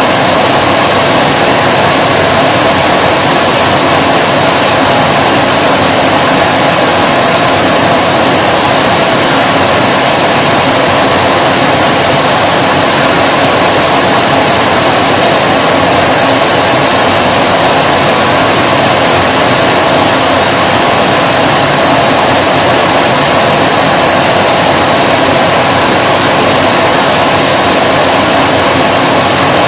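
Vacuum cleaner running steadily: a loud, even rush of air with a constant motor whine that never changes in pitch or level.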